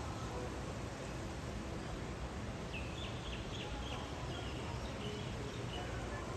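Steady outdoor noise with a low rumble of wind on the microphone. About three seconds in, a small bird gives a quick series of high chirps for a couple of seconds.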